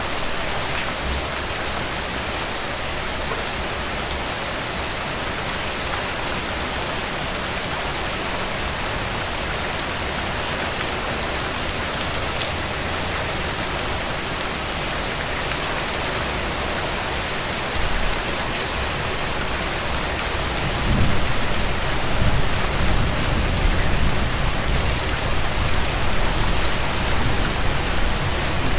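Steady rain pattering on a tent, with fine drop ticks over an even hiss. About three quarters of the way in, a low rumble joins and the sound grows a little louder.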